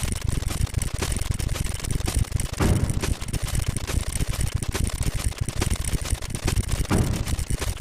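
Counting sound effect: a rapid, unbroken stream of sharp clicks like a counter ticking over very fast, with two low swells, about three and seven seconds in.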